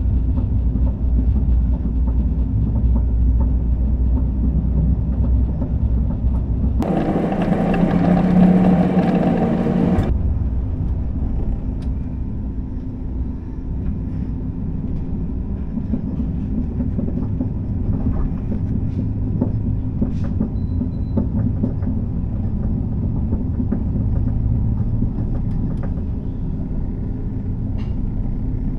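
Steady rumble of a moving passenger train heard from inside the carriage, with a steady hum running under it. About seven seconds in, a louder, harsher rushing noise cuts in for about three seconds and stops abruptly.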